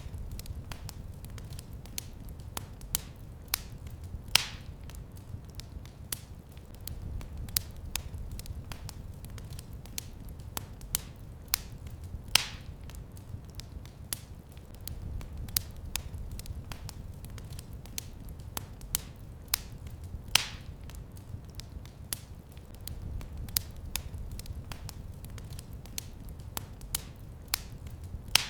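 Wood fire in a fireplace crackling steadily with many small snaps, over a low rumble of the flames that swells and fades. Three louder pops come about eight seconds apart.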